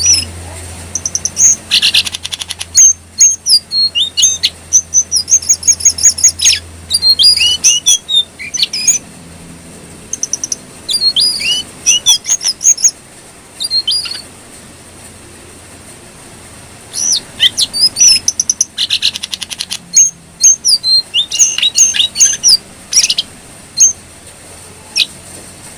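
Jongkangan coklat songbird singing: fast strings of sharp, high chirps and short whistled notes in bursts, broken by a few seconds' pause in the middle and again near the end.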